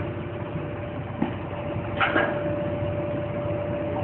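An engine running steadily with a constant whine over it, and a knock a little after a second in and a short clatter around two seconds in.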